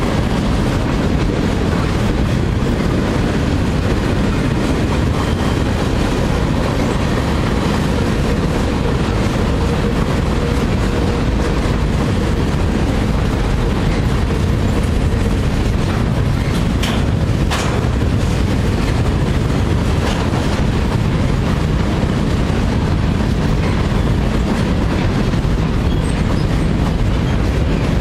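Freight cars of a Union Pacific train rolling over a steel truss bridge in a steady, loud rumble. A faint steady whine is held for several seconds in the first half, and there are two sharp knocks about seventeen seconds in.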